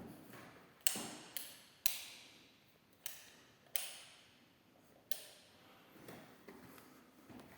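About six sharp, irregularly spaced taps, each ringing briefly before it dies away.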